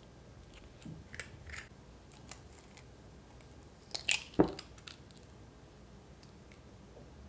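Kitchen prep handling sounds: a few light clicks and taps, then a cluster of sharper clicks with one louder knock about four seconds in.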